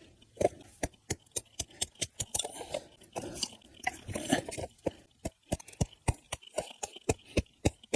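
Small knife working firewood: irregular sharp cracks and crunches, several a second, as the wood is cut and split into kindling.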